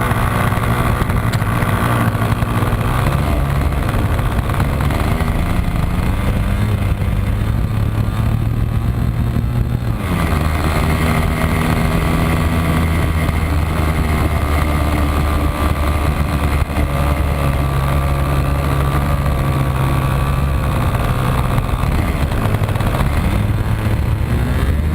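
Model airplane's small combustion engine and propeller running steadily. Its note changes abruptly about ten seconds in and rises near the end as the engine revs up.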